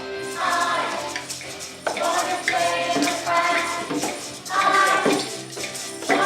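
A group of children singing a song together over instrumental accompaniment, with jingling percussion shaken in rhythm.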